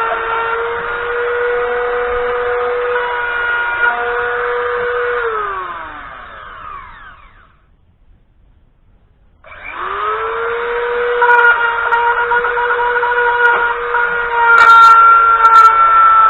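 An electric power tool runs at a steady speed, is switched off and winds down to a stop about five seconds in, then is started again and spins back up to speed. A few sharp knocks come near the end.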